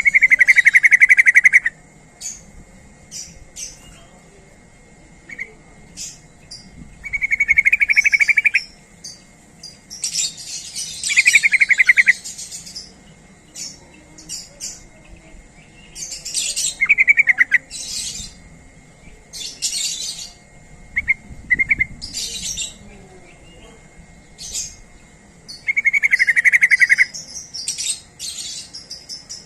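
Yellow-vented bulbul calling: loud rapid chattering phrases about a second long, repeated every few seconds, with short sharp high chirps scattered between them.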